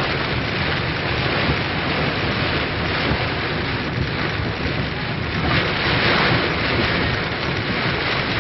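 Heavy rain falling on a vehicle, heard from inside the cabin: a loud, steady, dense hiss with a low rumble underneath.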